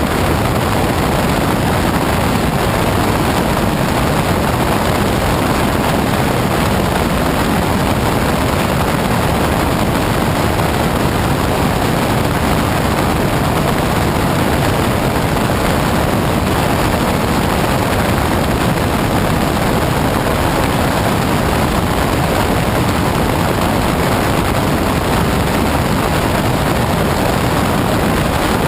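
Steady, unchanging rush of wind and engine-propeller noise from a light single-engine propeller plane, picked up by an action camera mounted outside on the airframe.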